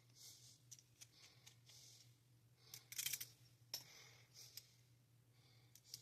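Faint wet-shaving sounds: short scraping strokes and clicks, with a louder cluster of strokes about three seconds in.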